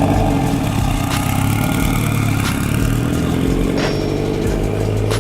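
Car engine running and slowly rising in pitch as it gathers speed.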